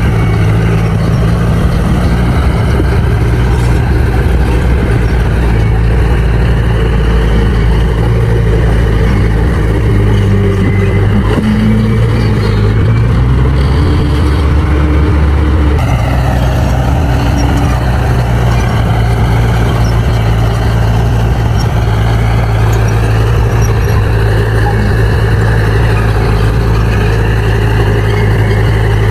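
Crawler bulldozer's diesel engine running steadily under load while pushing soil. Its pitch sags and shifts around the middle, then changes abruptly about two-thirds of the way through.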